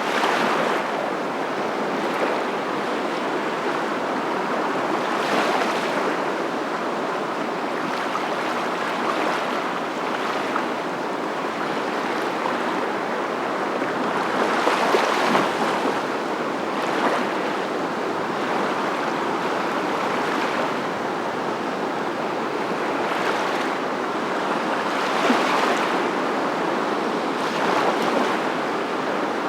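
Continuous rush of water, swelling and easing every few seconds, as of waves breaking.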